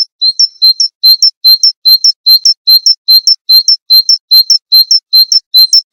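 A small songbird repeating the same short, high two-note call about four times a second, evenly spaced and unchanging; it starts abruptly out of silence.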